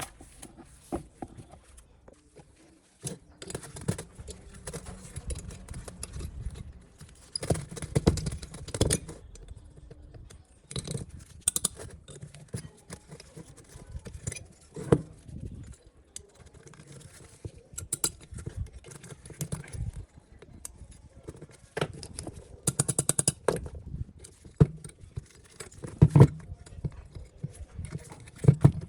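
Irregular clinks and knocks of hard objects being handled and set down, with a few louder clusters of rapid clatter.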